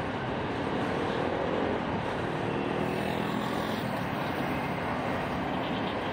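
Open-top freight hopper cars rolling past, with the steady noise of steel wheels on the rails.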